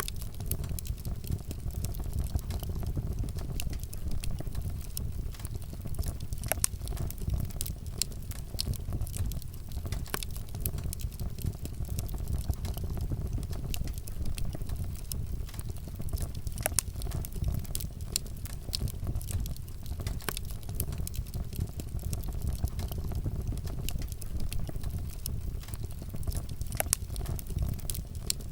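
Wood fire burning, crackling with frequent sharp, irregular pops over a steady low rumble.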